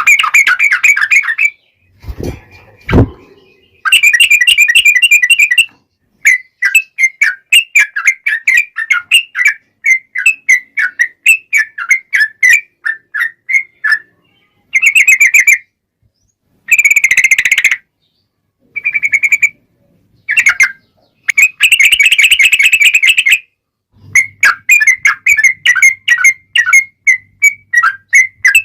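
Yellow-vented bulbul (trucukan) song: long runs of quick, bubbly chirping notes, about three a second at times and denser in other stretches, starting and stopping abruptly as in an edited lure recording. Two dull thumps come about two and three seconds in.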